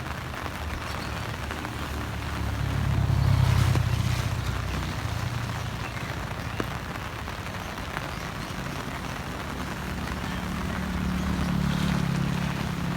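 Steady hiss of heavy rain, with a vehicle's engine swelling up and fading away twice: about three seconds in and again near the end.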